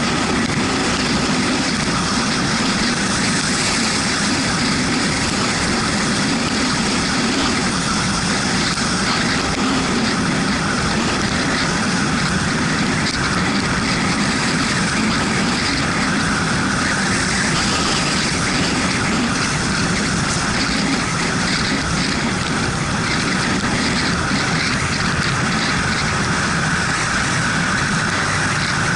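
Yamaha MT-125 motorcycle on the move in the rain: its single-cylinder engine running at a steady pace under a constant rush of wind and tyre hiss on the wet road.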